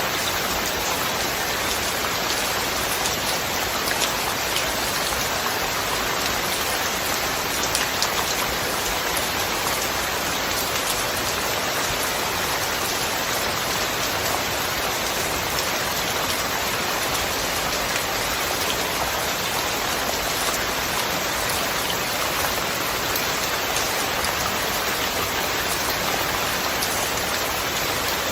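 Steady rain falling, an even hiss of many drops with a few louder individual drops.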